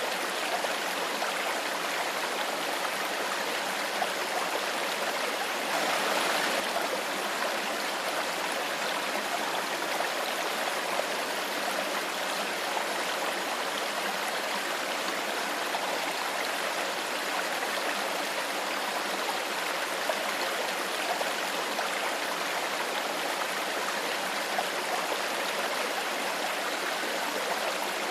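Clear stream of water flowing steadily over rocks, a continuous rushing and trickling, with a brief slightly louder surge about six seconds in.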